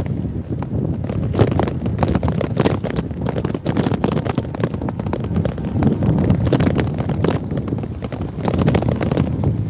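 Wind rushing and buffeting over the microphone on a moving motorbike, a loud, irregular rumble with constant fluttering.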